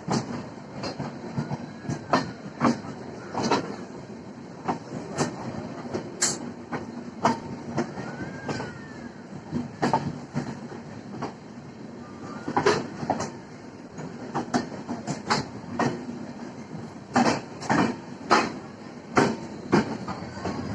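Train rolling along the track, its wheels clacking over the rail joints in repeated pairs and groups above a steady rumble.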